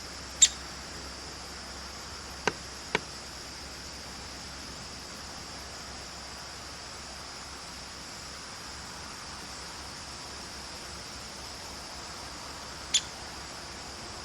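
Downy woodpecker giving single sharp, high 'pik' calls, once at the start and once near the end, with two quick ticks a half-second apart a couple of seconds in, over a steady hiss.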